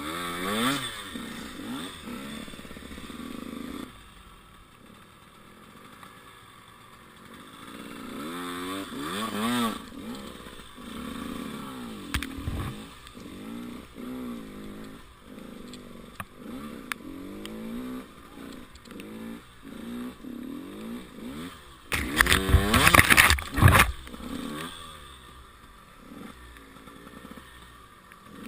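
Enduro motorcycle engine revving up and down again and again as it picks its way over rough off-road ground. Near the end comes a loud, harsh scraping rush lasting about two seconds.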